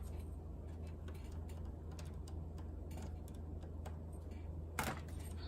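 Scattered small clicks and taps of hands and tools working on a laptop's plastic case and parts, with one louder click near the end, over a steady low hum.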